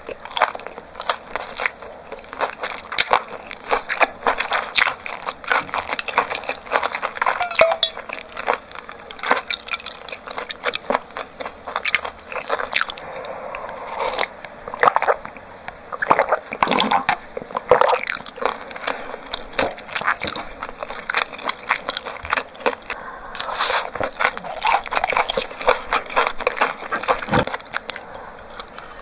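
Close-miked eating sounds of a crispy Korean green-onion and squid pancake being chewed: a dense run of crunchy bites, wet chewing and smacking clicks, with swallows of a drink partway through.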